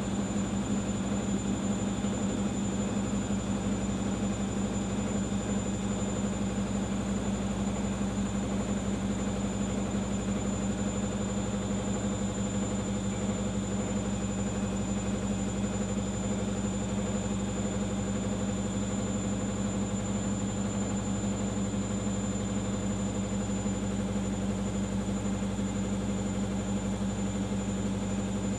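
Arçelik 5083 washing machine on its final spin, the motor and drum running at a steady speed: a constant low hum with a thin high whine above it.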